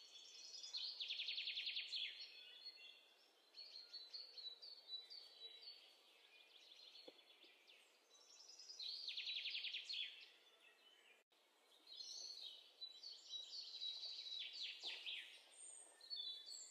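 Faint songbirds chirping, with a fast rattling trill about a second in and again about nine seconds in, and scattered short chirps between.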